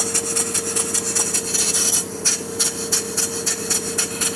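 Early steamboat steam engine running on compressed air, its valve and exhaust chuffing in a quick, even beat over a steady hum. It runs smoothly: the engine is in good running order.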